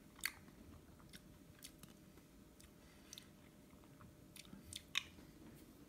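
Faint, close chewing of ice cream mixed with roasted almonds, with a scattering of short sharp crunches, the loudest about a quarter second in and again near the five-second mark.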